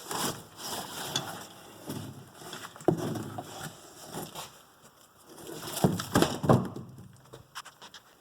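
Rotten wood being pulled and broken out of the motorhome's A-pillar framing: irregular crackling and scraping, with a sharp knock about three seconds in and two loud knocks a little after six seconds.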